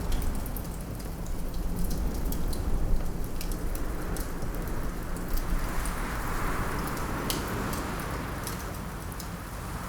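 Wood fire crackling, with scattered sharp pops and snaps over a low rumble. Wind swells in the middle and dies down again.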